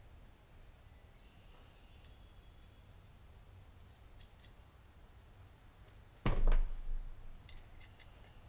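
Faint, light clicks and clinks of small metal chainsaw parts being handled and fitted, with one loud thump a little over six seconds in.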